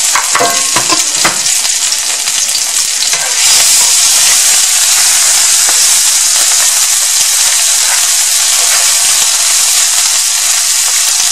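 Smashed chili and garlic sizzling in hot vegetable oil in a cast-iron skillet, stirred with a wooden spoon, with a few knocks of the spoon near the start. The sizzle is steady and gets louder about three and a half seconds in.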